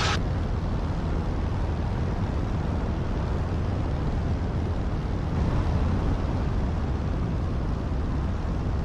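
Piston engine and propeller of a 100 hp Jodel D150 Mascaret light aircraft running steadily in cruise flight, an even unbroken drone.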